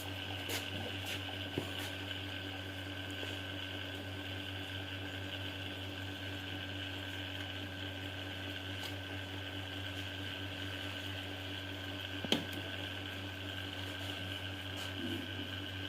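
A steady machine hum, unchanging in pitch, with one sharp click about twelve seconds in.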